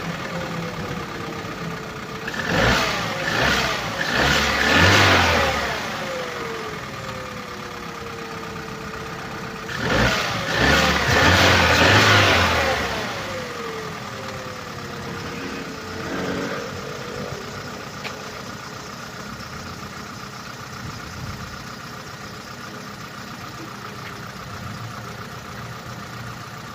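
Opel Corsa D's 1.2-litre A12XEL petrol four-cylinder engine revved in a few quick blips, then one longer rev about ten seconds in, dropping back to idle in between and toward the end. It knocks from a failed connecting-rod bearing.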